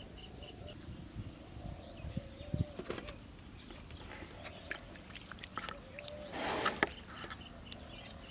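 Birds calling around a rural pond: a repeated mid-pitched note that bends at its end and short high chirps in quick series, with scattered small clicks and a brief rustle about six and a half seconds in.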